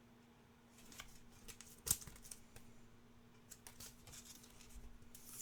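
Trading cards being handled: faint clicks and light rustling as cards are slid off a stack, with one sharper tap about two seconds in. A faint steady hum runs underneath.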